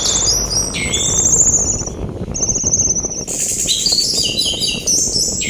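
Orange-headed thrush (anis merah) singing: phrase after phrase of rapid trills and high, sliding whistles. A steady rush of sea wind lies beneath.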